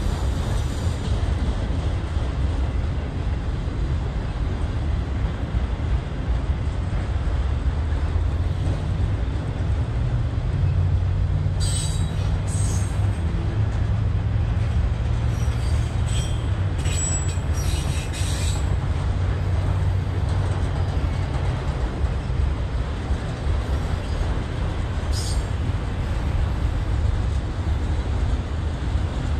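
Freight train of autorack cars rolling past: a steady rumble of steel wheels on the rails, with a few brief high wheel squeals around the middle and once more later on.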